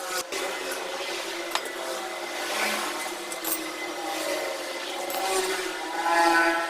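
A handheld power tool working on a motorcycle exhaust muffler, its motor whine rising and falling in pitch as it bites, with a few sharp metallic clicks. The whine is loudest near the end.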